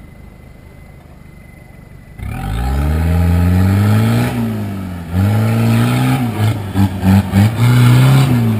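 Toyota Land Cruiser 4x4 engine revving hard under load as it climbs a steep dirt slope. It starts about two seconds in with rising pitch, eases off briefly, then takes several quick throttle blips before revving high again and falling away near the end.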